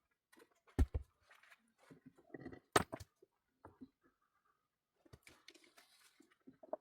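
Irregular knocks, clicks and scrapes from hands working with materials, with two louder thuds about a second in and near three seconds in.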